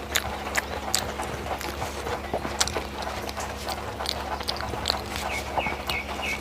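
A person chewing food close to the microphone: irregular wet smacks and mouth clicks, several a second, over a steady low hum.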